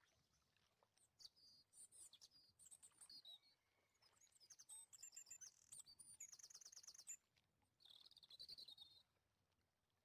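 A small bird chirping in quick, high-pitched notes, with a fast trill about five seconds in, then a warbling phrase near the end.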